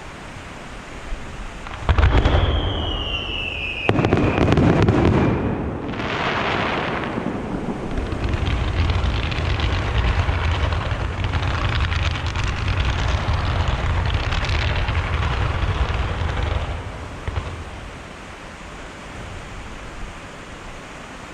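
Aerial fireworks: a loud bang about two seconds in, a falling whistle, and a second bang, followed by a long stretch of rapid crackling over a low rumble that fades after about sixteen seconds.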